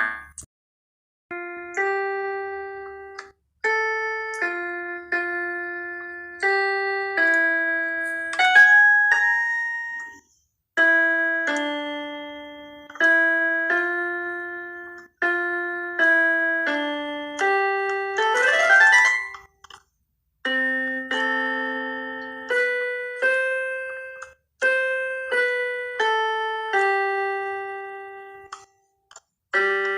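Solo keyboard in a piano tone playing a slow instrumental melody over struck chords, each note dying away, with short pauses between some phrases. A quick upward glissando comes just before the two-thirds mark.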